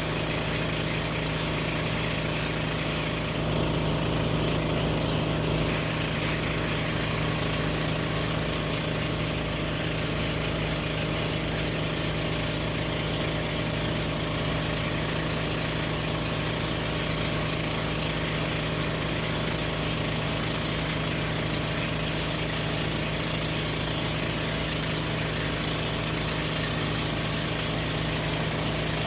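A small boat's engine running steadily with an unchanging drone, over a constant rushing hiss.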